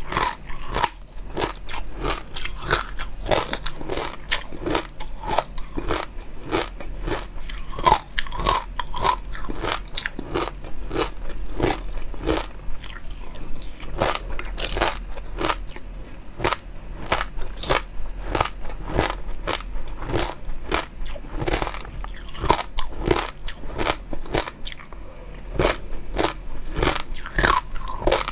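Close-miked eating sounds: a person biting and chewing food, a dense run of crunchy clicks several times a second.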